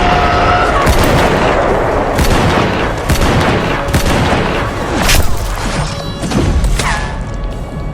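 Battle soundscape of scattered rifle and machine-gun fire with heavy booming explosions and rumble, mixed under film score music. The shots come irregularly, a few per second, and the din thins near the end.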